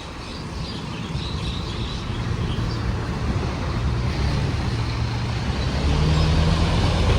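A motor vehicle's engine hum growing steadily louder, its low pitch rising in the second half as it speeds up or comes closer, over road noise.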